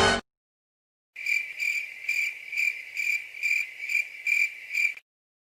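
Cricket sound effect: about nine evenly spaced, high-pitched chirps, roughly two a second, starting about a second in and stopping near the end.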